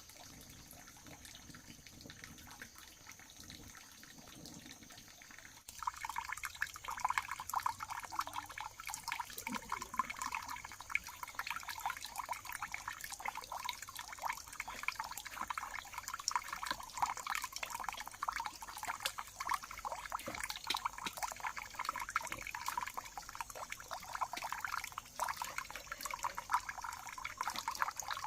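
Water running and splashing, starting suddenly about six seconds in and then running on steadily.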